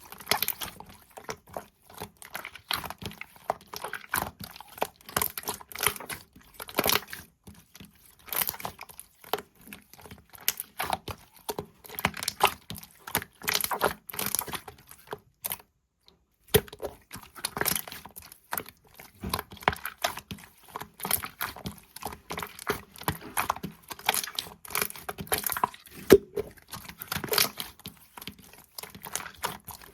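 Irregular crinkling and crackling, like something being handled or crumpled close to the microphone, broken by about a second of complete silence midway.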